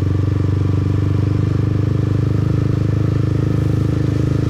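Motorbike engine running at a steady cruise, heard from the rider's seat as an even, fast-pulsing hum.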